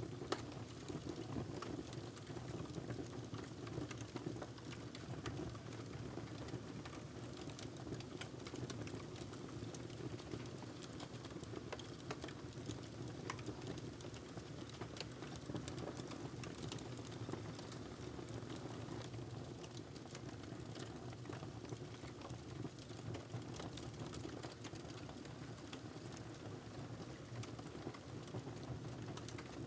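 Fire burning in a fireplace: a steady low rush of flames with frequent small crackles and pops, one slightly sharper pop right at the start.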